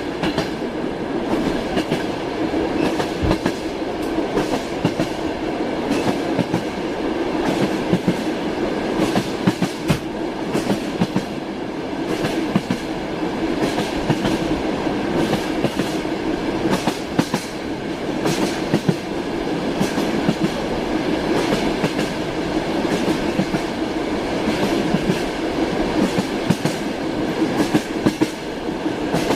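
Train wheels clacking over rail joints on a moving train, with short irregular clicks over a steady rumble.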